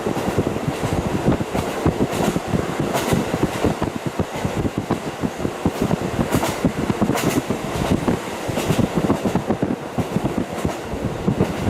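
KiHa 40 diesel railcar running at speed, heard through a fully opened window: steady rumble of the engine and wheels with wind rush, and the wheels clacking over rail joints every second or so.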